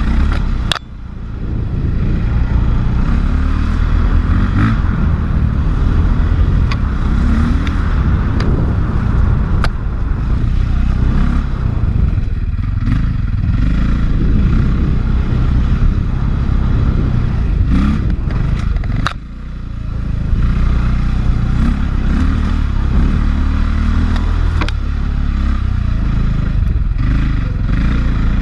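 A 450cc four-stroke single-cylinder enduro dirt bike engine pulling under load on a climbing trail, the throttle rising and falling, with a brief drop about a second in and another around two-thirds of the way through. Sharp clicks and clatter from the bike over rough ground.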